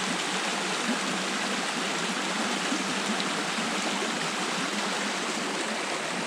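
Steady rushing of water in a small stream with little waterfalls.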